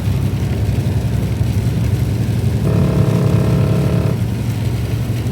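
Steady low drone of a truck driving on the highway, engine and road noise heard from inside the cab. A level tone of several pitches sounds for about a second and a half near the middle.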